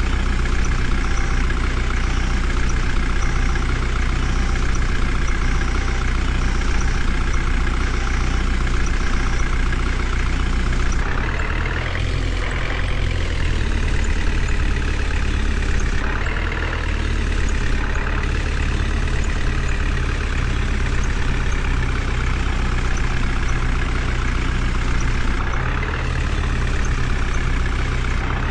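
Heavy diesel engine of a tractor or similar heavy vehicle running steadily, with a few brief shifts in its note partway through.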